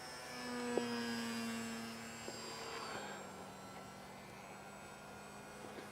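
Radio-controlled model seaplane's motor and propeller running in flight as a steady pitched hum. The pitch drops gently as it passes, loudest in the first two seconds and then fading.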